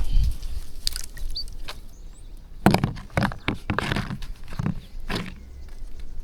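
A flock of birds feeding on scattered rice: pecking clicks and scuffling, with a dense run of rustling, flapping-like strokes in the middle and a short high chirp or two. A low thump right at the start.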